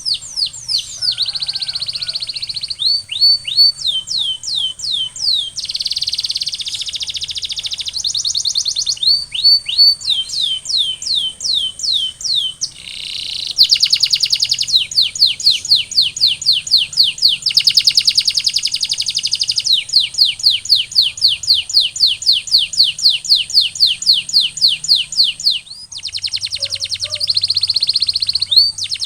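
Canary singing a continuous song: long runs of rapidly repeated, downward-sweeping notes, several a second, alternating with dense buzzy trills. A short break comes about thirteen seconds in, then a faster run of notes.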